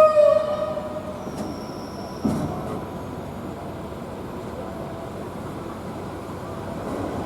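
Passenger train running on the track with a steady rumble. A loud pitched tone with a slight fall starts at once and lasts about a second, a thin high squeal follows about a second and a half in, and a single knock comes soon after.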